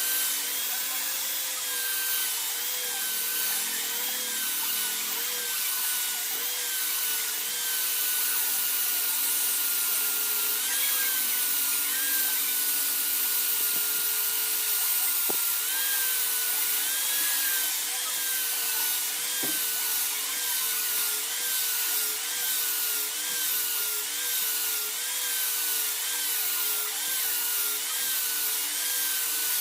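Electric power tool motor running steadily under a hiss of grinding or sanding. Its pitch dips and recovers about once a second as the work is pressed against it and eased off.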